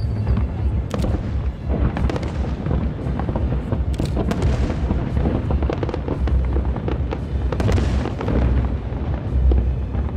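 Aerial fireworks shells bursting in rapid, dense succession: many sharp bangs and crackles over a continuous low rumble of booms.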